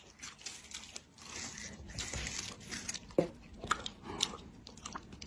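Faint crinkling and crunching noises with scattered sharp clicks.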